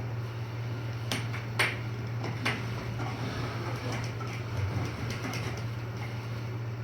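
Air hockey puck clacking off mallets and the table rails: a quick run of sharp hits in the first seconds, the loudest about a second and a half in, then a few lighter knocks later, over a steady low hum.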